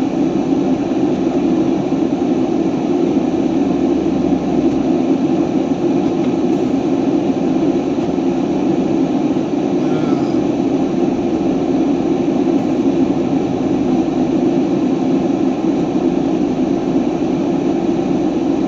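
Steady drone of a truck's engine and tyres heard from inside the moving cab, with a strong low hum.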